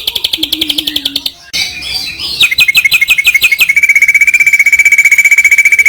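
A songbird calling loudly in rapid trills: a fast high trill in the first second, then a short run of falling notes, then a long, even, lower trill of about a dozen notes a second.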